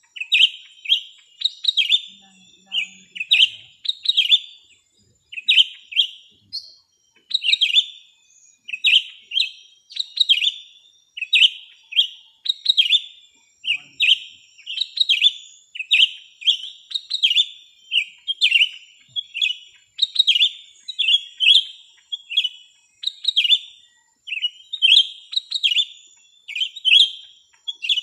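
Small bird chirping: short, sharp notes repeated about two to three times a second without a break, with a faint thin high tone behind them.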